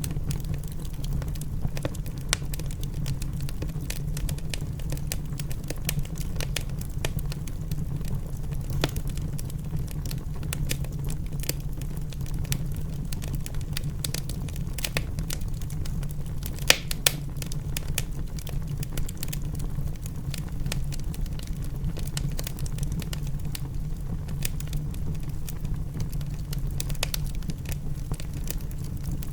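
Wood fire crackling in a fireplace: irregular sharp snaps scattered over a steady low rumble, with a couple of louder snaps about two-thirds of the way through.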